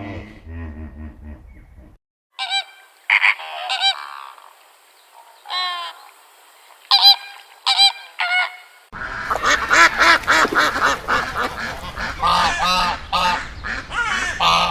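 Birds honking: separate honks at first, then from about nine seconds many birds calling over each other.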